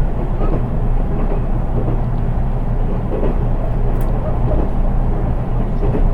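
Interior running noise of a JR East 183 series electric train, heard from the unpowered KuHa 183 driving trailer car: a steady low rumble of wheels on rail and body noise at speed.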